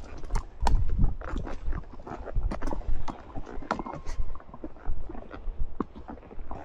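A horse's hooves clopping unevenly on a stony trail, a scatter of sharp knocks over a low rumble.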